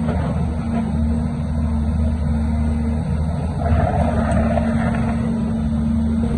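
Diesel engine of heavy construction machinery running steadily, with a louder spell of mixed noise about midway.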